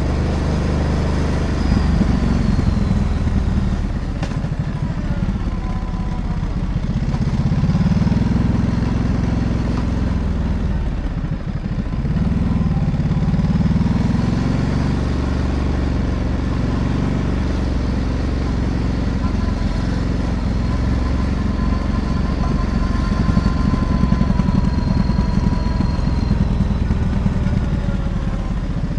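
Ducati DesertX Rally's 937 cc V-twin engine running on the move. The revs rise and fall with the throttle, dropping about four seconds in and again around eleven to twelve seconds in before climbing, with road and wind noise underneath.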